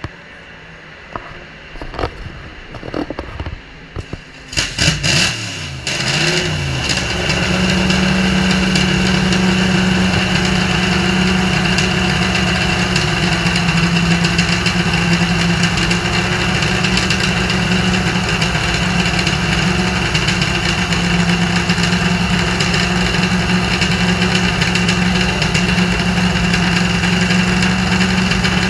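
1964 Shelby Cobra Daytona Coupe's Ford 289 V8 starting: a few seconds of cranking, then it catches about four and a half seconds in with a couple of revs. It then settles into a loud, steady idle.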